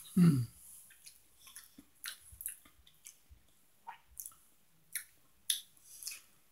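A person chewing a mouthful of soft, sauced hash browns, with wet, squishy mouth sounds and small clicks. Just after the start comes a short hum that falls in pitch.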